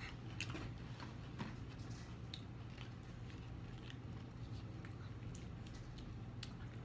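People chewing fast food, onion rings and chicken nuggets, with scattered small mouth clicks over a steady low hum.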